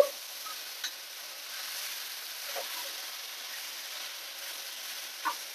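Beef and beef tendon sizzling in curry paste in a granite-coated frying pan while a spatula stirs them, with a steady hiss throughout. The spatula knocks against the pan four times, loudest at the very start, again about a second in, midway and near the end.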